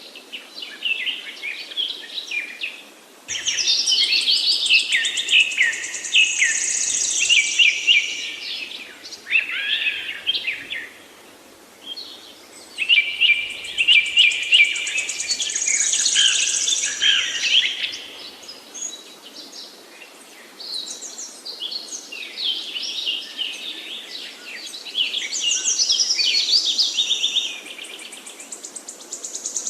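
A chorus of forest songbirds singing, several at once: high, rapid, warbling and trilling phrases of a few seconds each, with short lulls between bursts.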